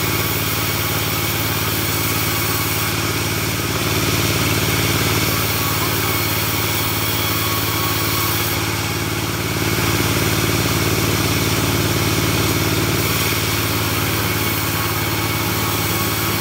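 Engine of a portable bandsaw sawmill running steadily. It gets slightly louder about four seconds in and again about ten seconds in.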